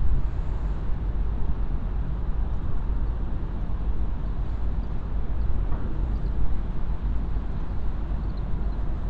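Steady low rumble of ship engines, with wind buffeting the microphone.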